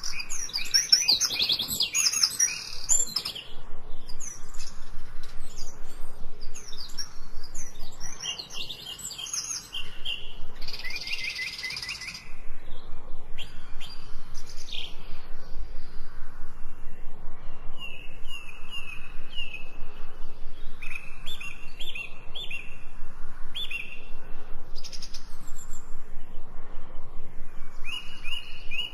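Several songbirds chirping and singing, with a busy mix of calls at first. From about the middle on, one bird repeats short, quick notes in series.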